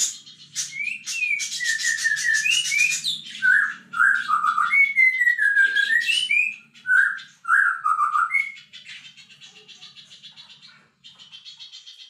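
A songbird singing: a run of clear whistled notes that slide up and down, framed by fast, buzzy chattering trills at the start and again over the last few seconds.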